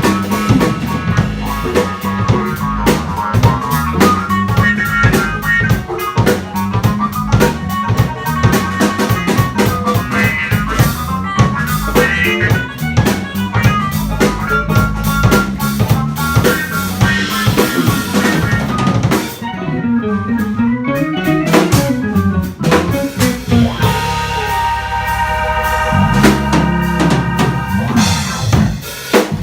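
Live jazz combo of guitar, piano, upright or electric bass and drum kit playing, the drum kit to the fore with rimshots and bass drum over a running bass line. Late on the drumming thins and held chords ring out.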